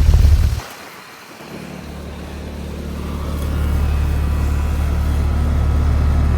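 2015 Carrier Comfort 5-ton heat pump starting up. A loud low rumble cuts off suddenly under a second in, then the unit's steady low hum builds over a couple of seconds and settles into running.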